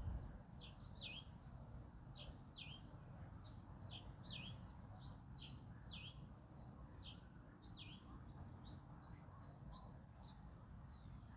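Small birds chirping continuously, many short, high, quickly falling notes several a second, over a faint low rumble of wind.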